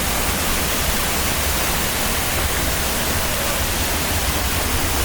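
Waterfall close by: a steady, loud, even rush of falling water.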